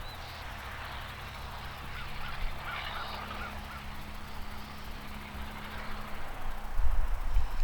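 Geese honking, a quick run of short calls about three seconds in, over wind buffeting the microphone, which gets much louder near the end.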